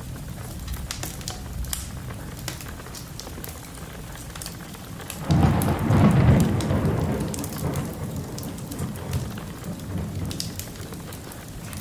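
A thunderclap about five seconds in, a sudden deep rumble that fades away over a few seconds, over steady rain and the scattered pops and crackles of a wood fire.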